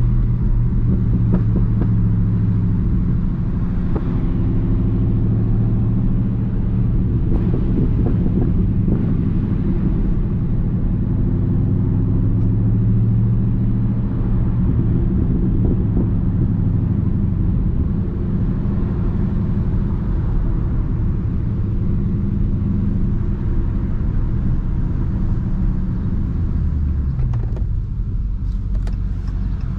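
Dodge Charger Daytona 392's 6.4-litre HEMI V8 running at a steady cruise, a low, even engine sound. Near the end the revs fall away and then climb again.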